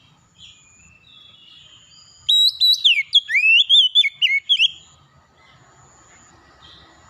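A songbird sings one rapid phrase of loud whistled notes that slide up and down, lasting about two and a half seconds, over faint, scattered background chirps.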